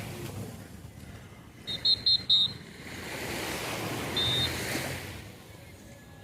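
Sea waves washing onto a beach, swelling about halfway through. Three quick high chirps about two seconds in and a single one a couple of seconds later.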